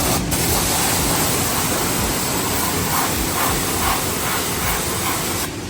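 High-pressure car wash wand spraying water, a loud steady hiss that cuts off abruptly about five and a half seconds in.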